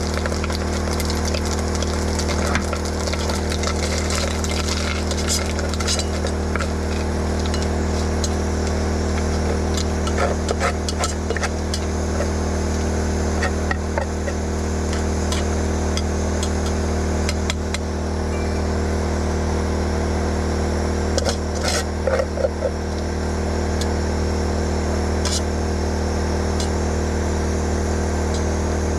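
Food sizzling and crackling in a hot pan, with scattered small pops, over a steady low hum from a running generator.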